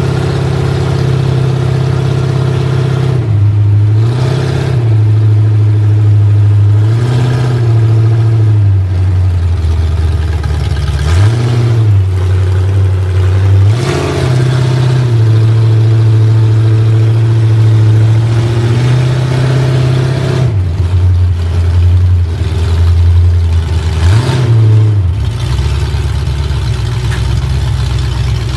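Car engine heard from inside the car on a ride-along, running hard under load, its pitch dropping and climbing back about seven times as the throttle lifts and the gears change.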